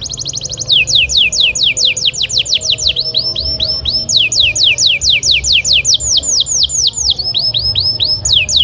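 Domestic canary in full song: a long unbroken run of high whistled notes repeated in quick series, about six a second, switching every second or two between falling sweeps and rising notes, with a faster tight trill at the start.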